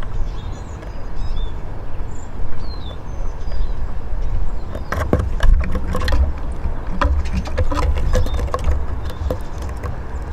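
Eurasian siskins at a bird table: a few short, falling high calls in the first seconds, then a run of quick clicks and taps from about halfway through. A steady low rumble runs underneath.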